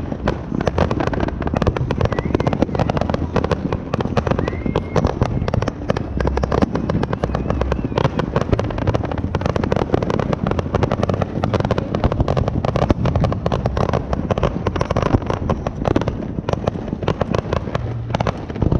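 Fireworks going off in a rapid, continuous barrage of pops and bangs with low booming underneath, many reports a second with no pause.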